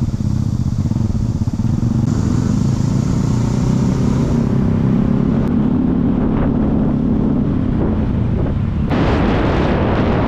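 A motor vehicle's engine running steadily on the move, a loud low drone with an even pulsing. About nine seconds in, a rush of wind noise joins it.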